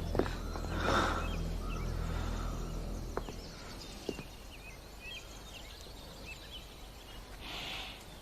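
Forest ambience with many short, high bird chirps over a low steady drone that fades out a few seconds in, with a few scattered clicks.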